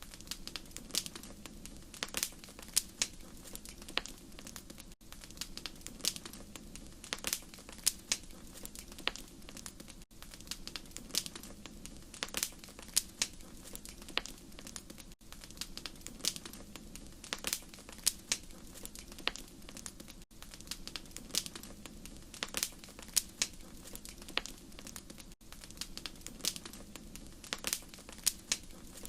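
Wood fire crackling: frequent irregular sharp pops and snaps over a steady low rumble of flame, with a brief dip about every five seconds.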